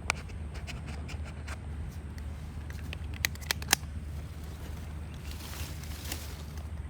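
Campfire crackling and popping, with three loud sharp pops in quick succession a little past three seconds in and a brief hiss near the end, over a steady low rumble.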